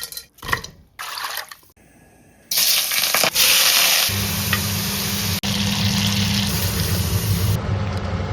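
Kitchen sounds in quick succession: a few short clatters, then water running from a tap in a loud steady rush, joined about four seconds in by a steady low hum.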